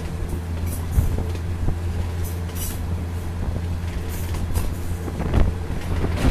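Diesel commuter train running along the track, heard from a carriage window: a steady low engine drone with rushing air, and sharp wheel knocks over rail joints about a second in and again near the end.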